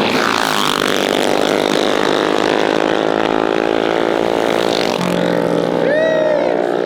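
Mini bike engines running and revving, several at once, their pitch gliding up and down. Near the end one engine gives a short rev that rises and falls.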